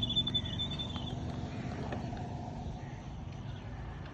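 Motorcycle engine idling with a fast, even thumping beat.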